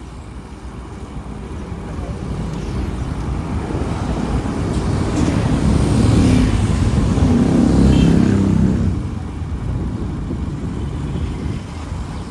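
Motorbike and city traffic on the move, a low rumbling road noise that swells steadily to its loudest about six to eight seconds in, then drops back.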